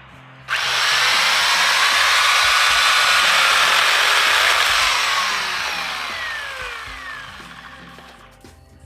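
GreenWorks 10-inch 6-amp corded electric chainsaw motor and chain switching on abruptly, running steadily for about four seconds, then falling in pitch and winding down as it coasts to a stop.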